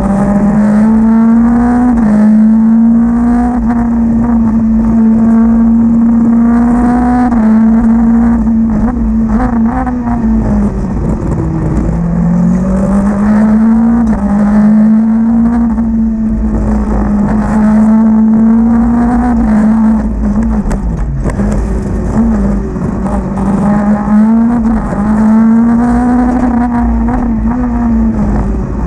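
Renault Clio competition car's engine, heard from inside the cabin, working hard at high revs throughout. Its pitch repeatedly climbs and drops as the driver shifts gears and lifts off.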